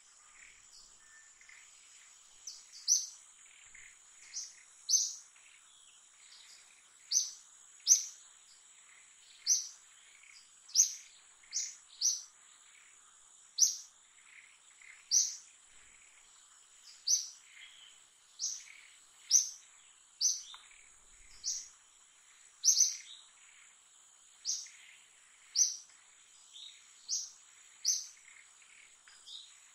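A bird calling with short, sharp, high chirps, about one a second, starting a few seconds in, over a steady high-pitched insect drone.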